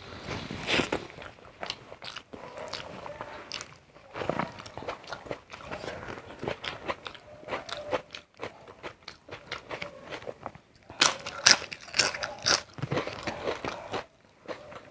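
Close-up eating sounds: a person biting, chewing and crunching crisp food, with a run of loud, crackly crunches about eleven to twelve and a half seconds in.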